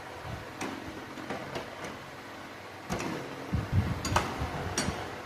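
Metal wrenches clinking and tapping as they are handled and tried on an AC line fitting: a few scattered clicks and knocks, the loudest cluster a little before four seconds in.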